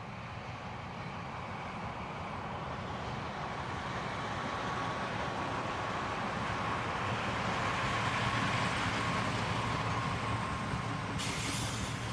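XPT diesel-electric express train passing at speed. Its engine rumble and a steady whine grow louder as it nears and peak toward the end, with a run of sharp clatters near the end as the train goes by.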